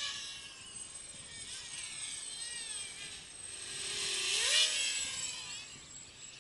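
A 200 mm racing quadcopter's DYS 3100 kV brushless motors and propellers whining in flight. The pitch rises and falls with the throttle, and the sound swells louder about four seconds in.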